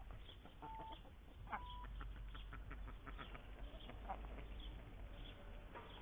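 Garden birds and poultry calling: a run of short chirps and clucks, with a few brief whistled notes in the first two seconds.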